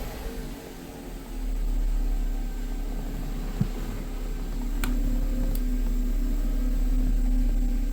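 Mercedes-Benz E350's 3.5-litre V6 idling steadily, with Seafoam engine treatment freshly added to the oil. The revs fall back right at the start, and there is a single sharp click a little past the middle.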